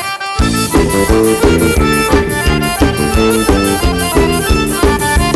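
Forró band playing an instrumental intro led by accordion. About half a second in, the bass and drums come in with a steady dance beat.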